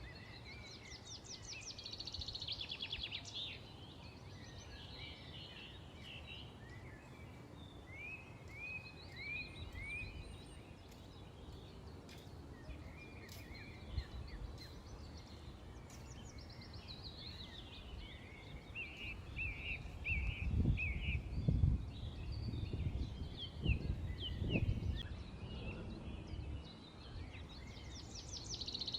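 Small songbirds chirping and twittering over a steady low background noise, with a fast trill near the start and again at the end. A few low rumbling bursts, the loudest sounds here, come about two-thirds of the way through.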